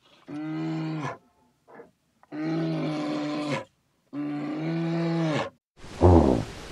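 Three long, even-pitched calls from a large animal, each about a second, with short silences between. Near the end a steady outdoor wind-like hiss sets in, with one short, loud, low grunt.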